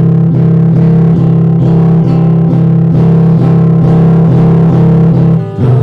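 Instrumental guitar music: a fast, evenly picked guitar pattern over sustained low bass notes, with no singing. The pattern breaks off and changes about five and a half seconds in.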